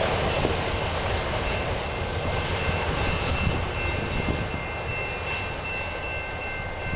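Autorack freight cars rolling away on steel rails as the end of a long freight train passes, the rumble of wheels on track slowly fading. A faint high ringing tone comes in about two seconds in.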